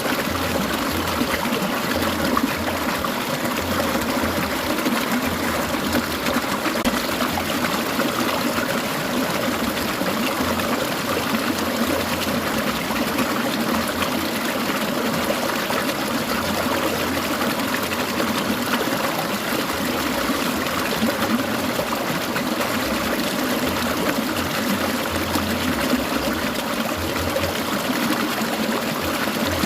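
Clear mountain stream babbling and trickling over rocks, a steady flow of water.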